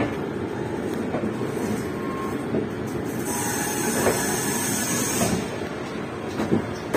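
LHB passenger coaches rolling slowly over the rails: a steady rumble with a few light wheel clicks and faint, brief wheel squeals.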